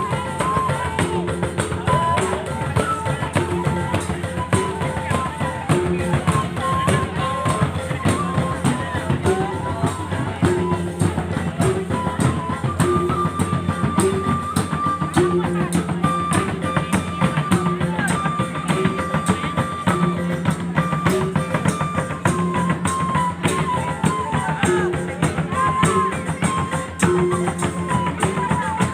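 Mandailing gordang sambilan ensemble playing: dense, rapid drumming on the tuned drums, with a repeating mid-pitched note figure and a held, higher melody line over it.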